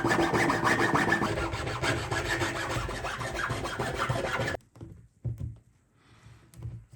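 Wood being sawn, a dense rasping cut that stops abruptly about four and a half seconds in. A couple of short, faint scrapes follow.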